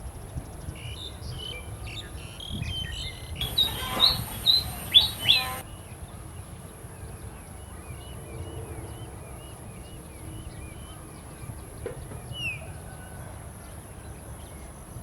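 A bird calling: scattered short chirps, a louder cluster of sharp down-slurred notes a few seconds in, then a quick run of soft repeated chirps and one more falling note.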